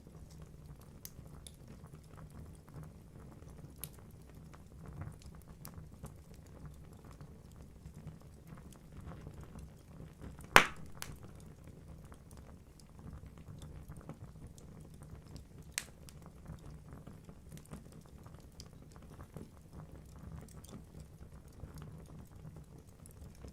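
Logs burning in a wood fireplace: a low steady burning sound with scattered small crackles, one sharp loud pop about halfway through and a smaller pop a few seconds later.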